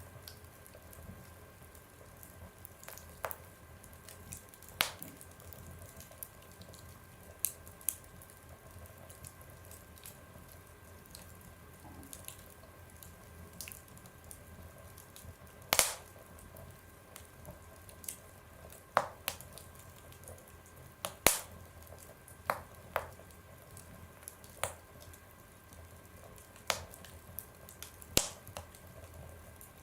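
Wood fire burning in a stove, crackling with irregular sharp pops and snaps a second or several apart over a faint steady hiss.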